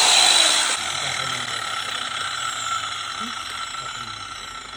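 Electric stone-cutting power tool running as it cuts marble: a steady whine over grinding noise, loudest in the first second and easing slightly after.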